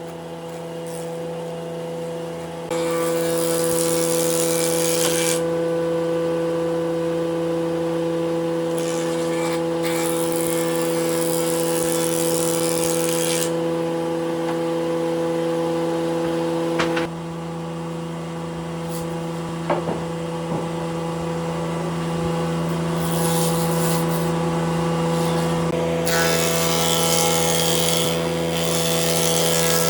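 Electric power tool running with a steady motor hum, with four stretches of harsher hissing noise as it works into wood, the longest about four seconds. About halfway through the hum drops in pitch and level.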